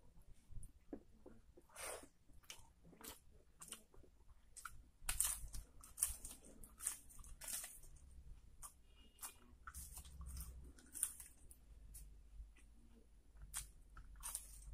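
Close-up eating sounds: a crisp papad being bitten and chewed, giving many short, irregular crunches and crackles.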